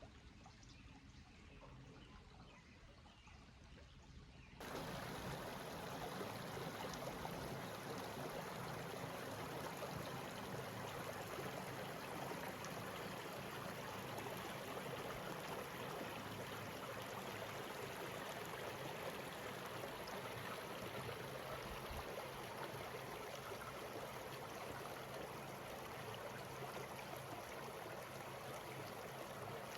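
Stream water running steadily; after a quieter opening, the sound of the water comes in abruptly about four and a half seconds in.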